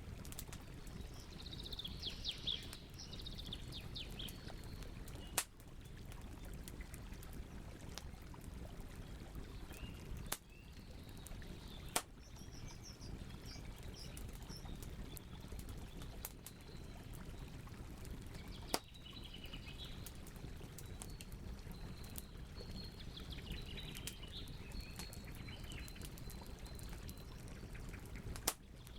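Campfire burning with a steady low rumble and crackle, broken by several sharp pops a few seconds apart. Songbirds chirp on and off in the background.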